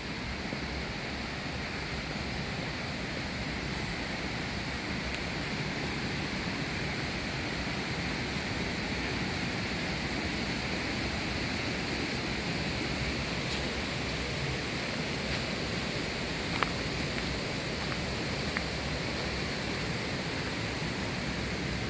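Steady rush of water from a waterfall. Two brief sharp clicks sound over it, the first about three-quarters of the way through and a fainter one a couple of seconds later.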